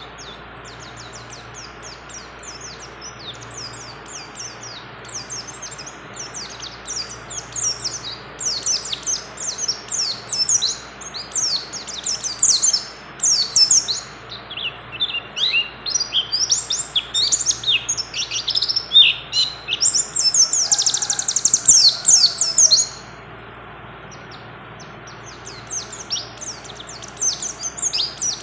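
White-eye (pleci) singing a long, fast, continuous song of high chattering and whistled notes, in the style of a bird in full song with other birds' phrases mixed in. The song breaks off for a few seconds near the end, then starts again.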